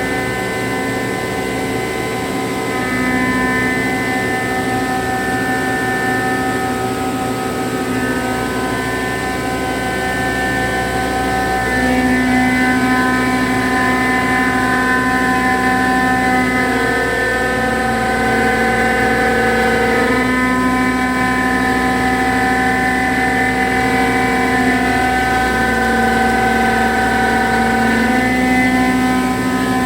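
CNC milling machine rough-milling aluminium alloy with a 25 mm cutter: a loud, steady cutting whine made of several steady tones over a low hum. The whine steps slightly up and down in pitch a few times from about the middle on.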